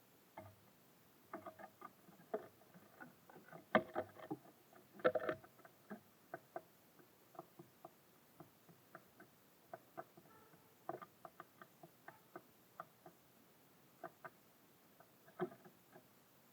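Small birds pecking and hopping at a bird feeder: irregular light taps and scratches, with a louder cluster of knocks about four seconds in and again about five seconds in.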